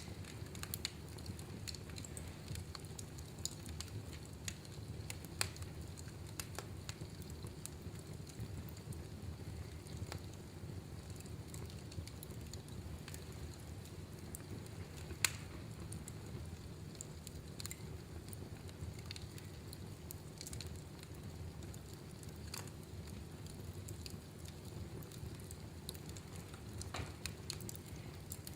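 Wood fire burning in a fireplace: a steady low rumble with scattered sharp crackles and pops, one louder pop about halfway through.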